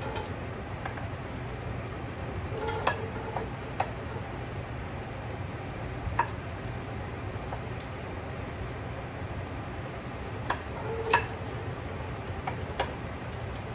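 Chopped celery sizzling in melted butter and oil in a hot pan, with a few sharp clicks of a utensil stirring against the pan.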